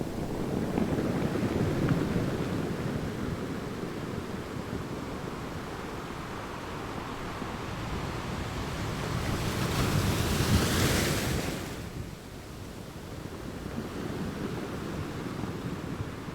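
Sea waves breaking on a shore: a steady wash of surf with one wave building to a loud hissing break about ten seconds in, then drawing back.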